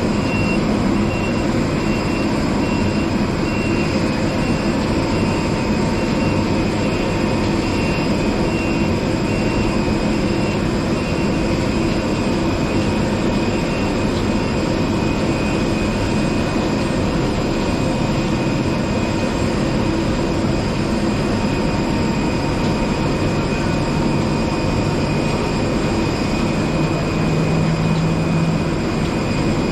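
Steady machinery noise at a parked airliner's stand during unloading, carrying several high steady whining tones, with a lower hum that swells for a few seconds near the end.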